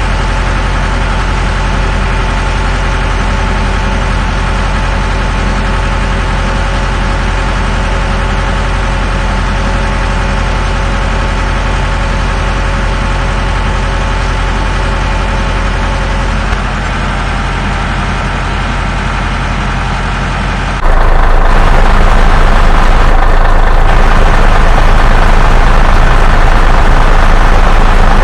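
Heavy truck engine idling steadily. About three-quarters of the way through it abruptly steps louder, with more hiss.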